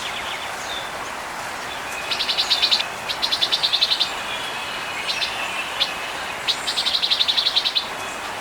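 A small songbird singing a rapid, dry trill, repeated three times, with a couple of single chip notes in between.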